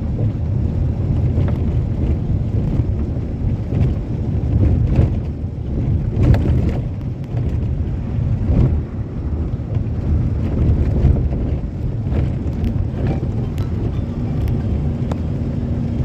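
Passenger train running at speed, heard from a coach window: a steady low rumble of wheels on the rails, with scattered irregular clicks and knocks.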